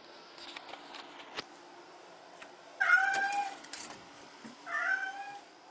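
A cat meowing twice, a long loud call about three seconds in and a shorter one near the end, with a few faint clicks before.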